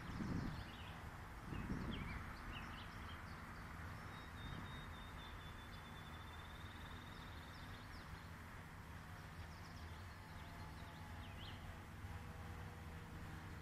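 Small birds chirping now and then over a steady outdoor hiss, with a fast, even trill held for about four seconds in the middle. Low wind buffets hit the microphone in the first two seconds.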